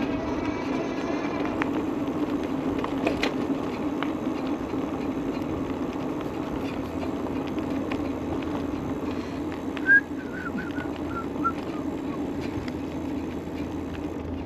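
Steady hum of an e-bike in motion. About ten seconds in, a brief run of short, falling chirps.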